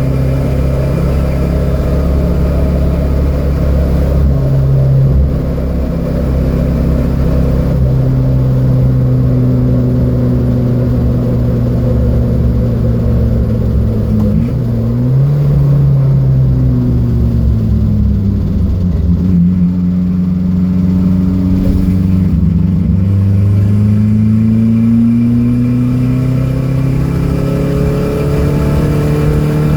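Datsun B210 race car engine running hard on track, its revs held high at first, then dropping sharply about halfway as the car slows. The revs sag and then climb steadily again toward the end as it accelerates.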